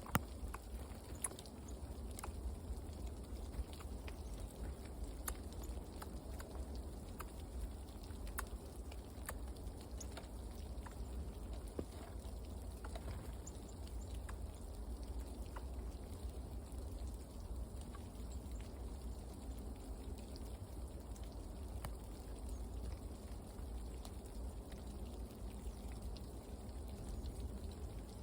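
Scattered light ticks and taps over a steady low rumble.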